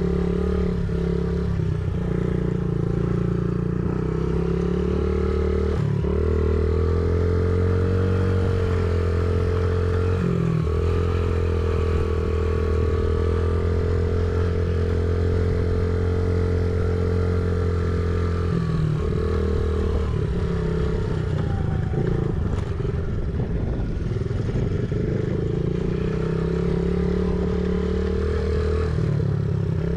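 Honda CRF50 mini dirt bike's small single-cylinder four-stroke engine running continuously under throttle. Its note shifts pitch several times as the rider rolls off and back on the gas.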